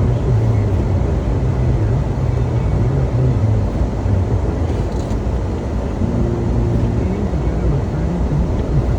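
An engine running with a steady low rumble; a higher hum joins in about six seconds in.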